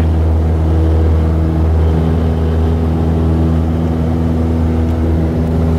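Cessna 172's piston engine and propeller running steadily, as heard inside the cockpit: a constant low drone that does not change in pitch.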